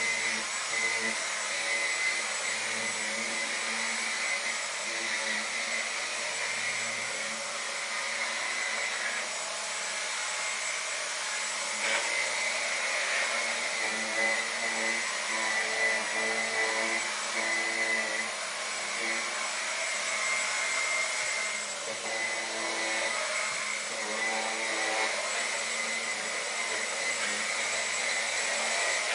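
Dyson V10 Animal cordless stick vacuum running steadily: a continuous rushing of air with a high whine over it. A small click comes about twelve seconds in.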